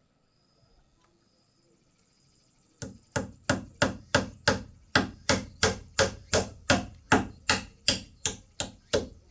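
Rhythmic chopping: a blade striking a chopping board in a steady run of about three sharp strokes a second, starting about three seconds in.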